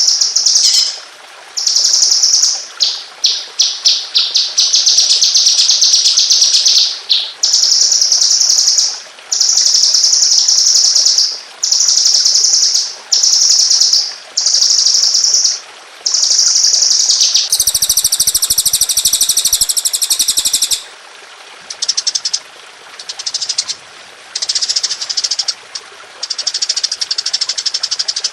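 Songbird singing rapid-fire 'tembakan' trills: high, fast-repeated notes in phrases about a second or so long, one after another with short pauses. About eighteen seconds in, a higher, harsher phrase lasts about three seconds.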